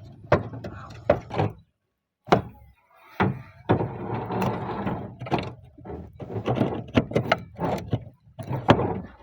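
Repeated sharp knocks and clatters of roof tiles being pried loose and handled, with a stretch of scraping a few seconds in.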